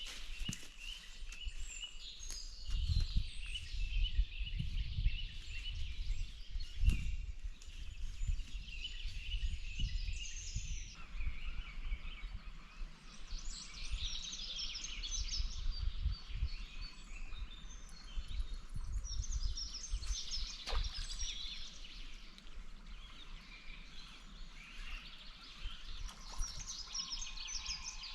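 Small birds singing and chirping, many quick high trills overlapping one another, with irregular low rumbles underneath that are strongest a few seconds in.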